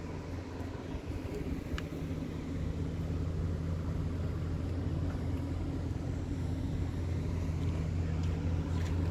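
Ford F550 service truck's engine idling with a steady low hum.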